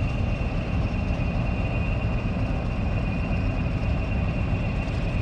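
Diesel locomotive idling at a station, a steady low engine rumble with a thin steady whine on top.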